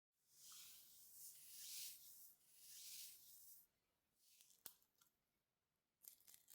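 Soft swishing and rubbing from makeup being applied or handled: three hissy strokes, then one light click a little past the middle.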